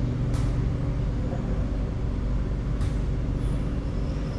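Inside an SMRT C751B metro train carriage: the train's steady low hum, with two brief hisses, one about half a second in and one just before three seconds in.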